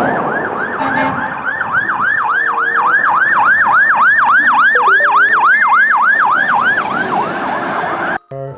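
Electronic fire-truck siren in a fast yelp, about four rising-and-falling sweeps a second. It cuts off suddenly near the end.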